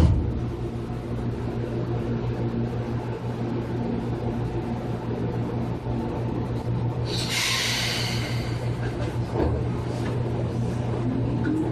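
Seibu 2000 series electric commuter train, with a steady low hum and a short hiss about seven seconds in. A motor whine rises in pitch near the end as the train accelerates.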